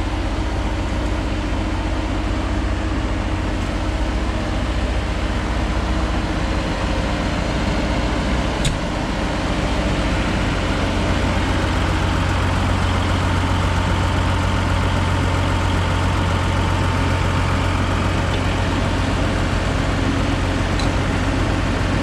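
Engine of a Mazzotti self-propelled high-clearance crop sprayer running steadily, with a single sharp click about nine seconds in.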